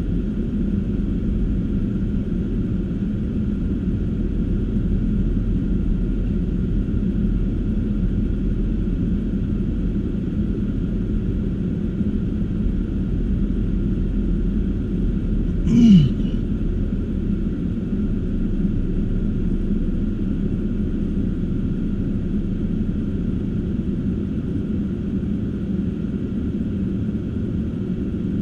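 Steady low rumble of a car driving, its engine and tyres running on snowy roads. About halfway through, one brief sound that drops quickly in pitch.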